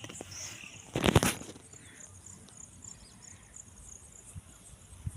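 Insects chirring in a faint, steady high pulsing, with a short loud rush of noise about a second in.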